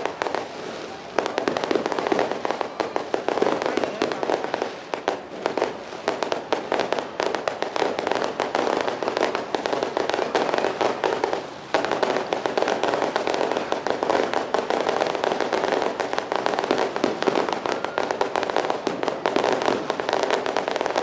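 Firecrackers going off in a dense, rapid, continuous crackle, with brief lulls about a second in and about twelve seconds in.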